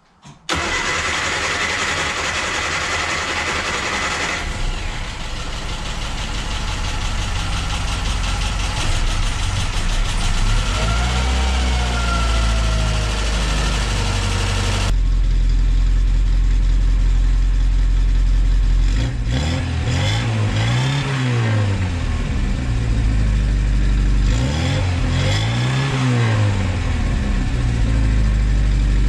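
A freshly tuned-up classic Mini's A-series four-cylinder engine starts about half a second in and runs, with new coil, leads and points. It is revved up and let fall back three times, once in the middle and twice near the end.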